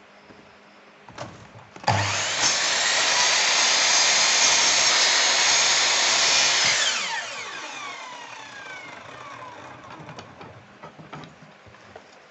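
Electric wood router switched on about two seconds in, running at full speed for about five seconds, then switched off and winding down with a falling whine.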